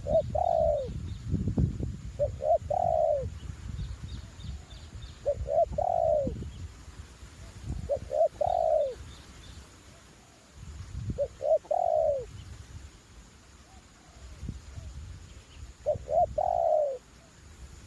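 Spotted dove (terkukur) decoy cooing its repeated phrase, a couple of short notes then a longer arched coo, about every two to three seconds. Wind buffets the microphone with a low rumble throughout. Other small birds chirp faintly in the background.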